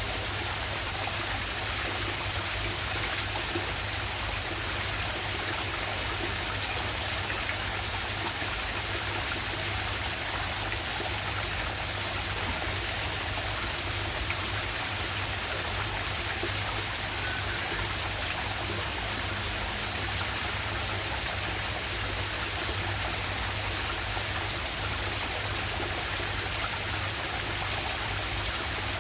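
Waterfall and river water rushing over rocks, a steady unbroken rush.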